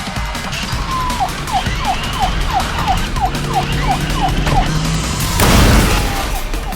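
A siren of rapid falling chirps, about three a second, over music. It is broken a little after five seconds by a loud, noisy whoosh, and then the chirping picks up again.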